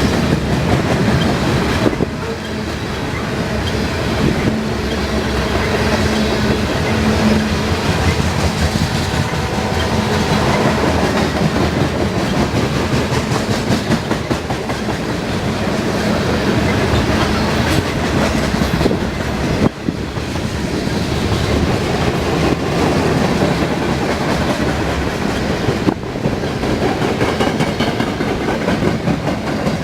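Railroad cars rolling past steadily, their wheels clicking and knocking over the rail joints.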